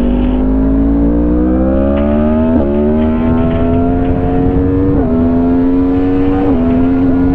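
Motorcycle engine accelerating through the gears: its pitch climbs steadily, then drops sharply at an upshift about two and a half seconds in, again at about five seconds, and once more a second and a half later. Low wind rumble sits underneath.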